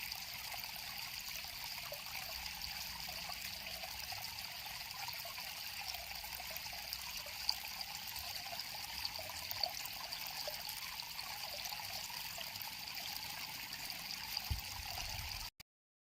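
River water flowing and trickling steadily, with a few small splashes or drips standing out. It cuts off abruptly to silence near the end.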